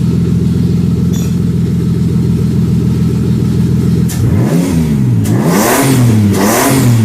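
1995 Toyota 2JZ-GTE twin-turbo inline-six, freshly swapped and on its first start, idling steadily through a 3-inch exhaust, then blipped about three times from about four seconds in, its pitch rising and falling with each rev.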